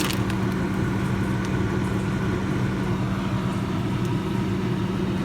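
Old Roper refrigerator running with a steady low hum that holds one constant tone.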